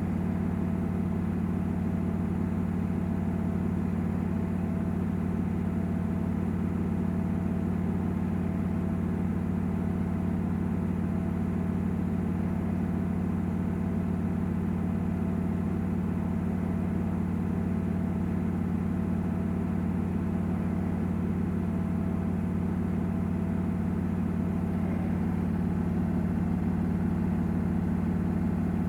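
Samsung WW900 washing machine running steadily with its drum spinning, a constant low motor hum with no change in speed.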